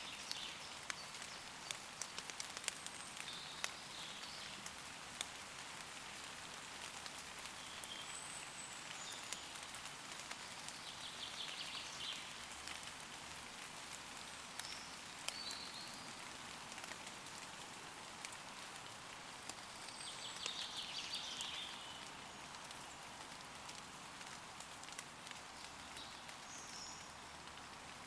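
Steady light rain falling on leaves, with many single drops ticking. Distant woodland birds call a few times, in short high trills.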